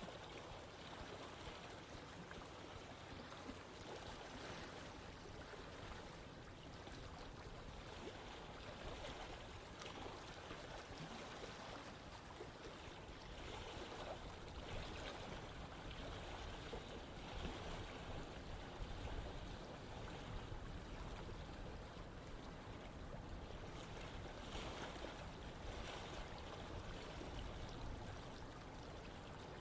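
Running water of a stream flowing steadily, a continuous rushing with small swells in level.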